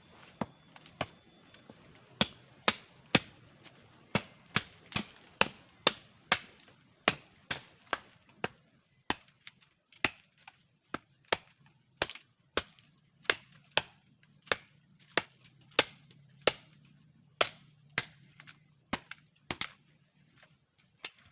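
Chopping wood with a machete-like blade: a steady run of sharp strikes, about two a second, with a short pause about halfway.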